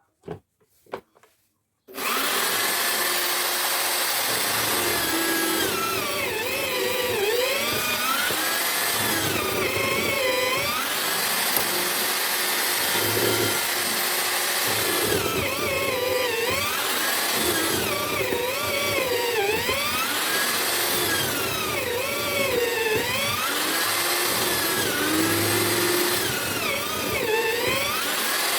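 Homemade drill-powered mortiser switched on about two seconds in, its electric motor then running loudly and continuously. Its pitch sags and recovers about every two seconds, as the bit is plunged into the wood and drawn back out of the mortise.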